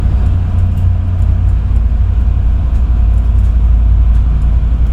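Macau passenger ferry underway, its engines giving a loud, steady low rumble with a faint steady hum above it.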